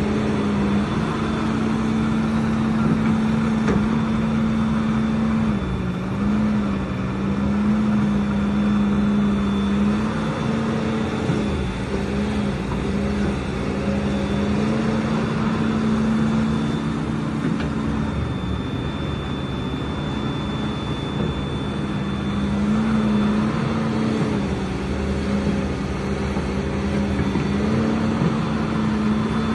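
Excavator engine running steadily, its pitch stepping down and back up several times, with a faint high steady whine above it.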